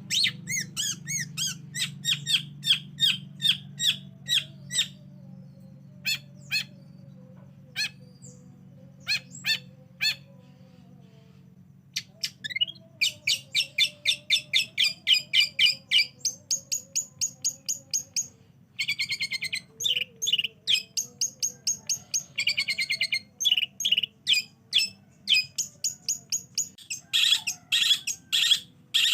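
Long-tailed shrike (cendet) song: fast series of sharp, repeated chattering notes. They thin out and pause briefly near the middle, then pick up again in dense runs.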